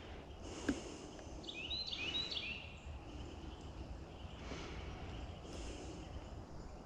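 A bird calling a quick run of about five short chirps over quiet outdoor background noise, with a single sharp click shortly before.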